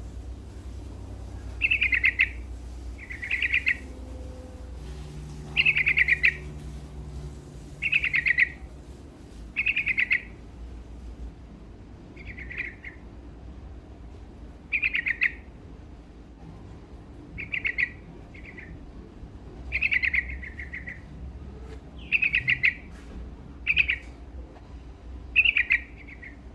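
Yellow-vented bulbul (trucuk) singing, short phrases repeated about every two seconds.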